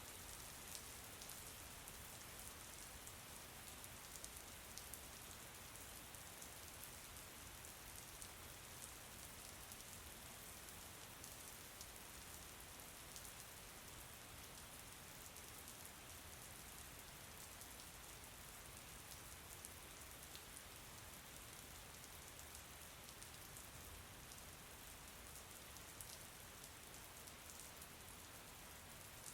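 Faint, steady rain: an even hiss of falling drops with many small ticks of individual drops.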